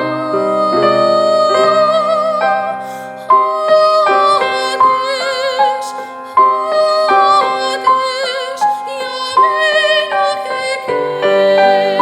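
A vocal ensemble singing with vibrato, with piano accompaniment.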